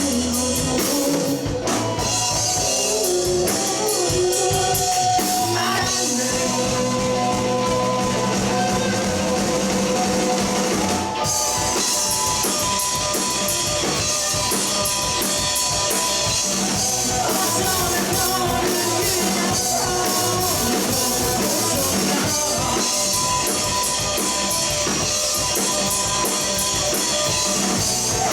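Rock band playing live: electric guitars, bass guitar and drum kit, loud and dense.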